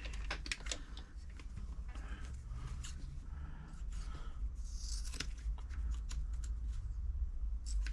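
Small handling noises at the sewing machine: scattered light clicks and cloth rustles over a low steady hum.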